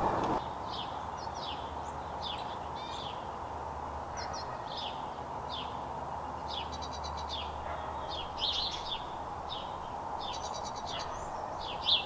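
Small birds chirping: a steady run of short, high, quickly falling chirps, with a couple of rapid trills mixed in, over a steady low background hum.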